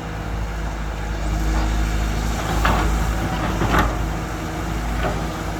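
Heavy diesel truck engine running steadily, with two short hissing surges near the middle.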